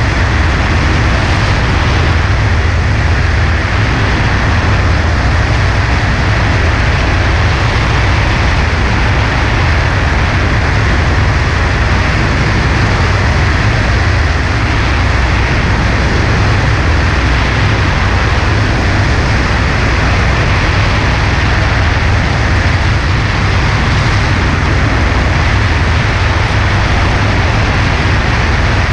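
A Cessna 140A's four-cylinder engine and propeller running steadily in flight, with a loud, even rush of air.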